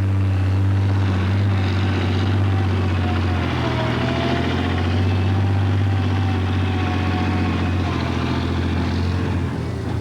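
Heavy-duty truck tractor's turbocharged diesel engine droning steadily under load, with a faint whine that glides in pitch about four seconds in.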